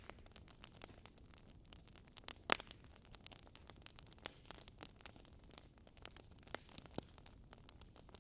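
Wood fire crackling in a fireplace: irregular small pops over a faint hiss, with one louder snap about two and a half seconds in.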